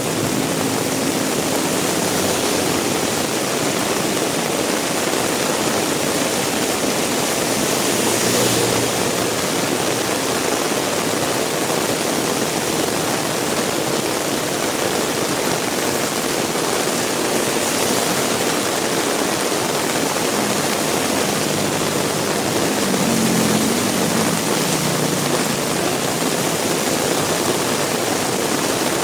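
Heavy rain pouring steadily, an even hiss of downpour. A low vehicle engine hum passes underneath at the start and again about three quarters of the way through.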